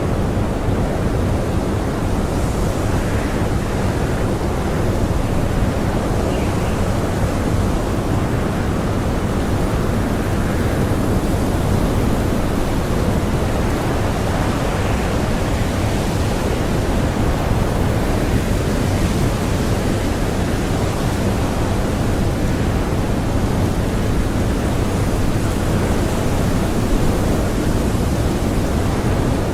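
Blizzard wind blowing strongly and steadily, a dense, even rush of noise without gusts or breaks.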